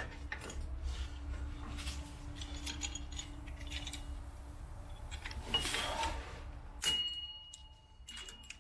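Metal clinks and scrapes of drum-brake hardware being worked by hand as a brake spring is fitted, with one sharper clink about seven seconds in that rings on briefly.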